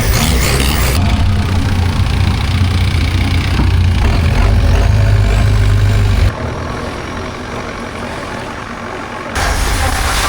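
Longtail boat's engine running with a steady low rumble. It drops abruptly about six seconds in and comes back loud about three seconds later.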